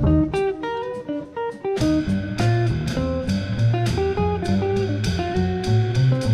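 Jazz trio of guitar, double bass and drums playing a swing standard, with the guitar carrying a plucked single-note line. The bass and drums are thin for the first couple of seconds, then come back in full about two seconds in.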